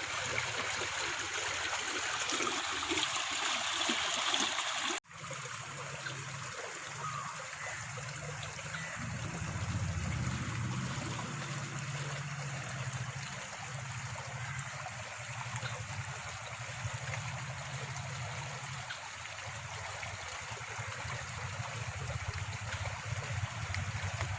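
Steady flowing water of a stream, trickling and gurgling. About five seconds in the sound drops out for a moment and returns deeper, with less hiss.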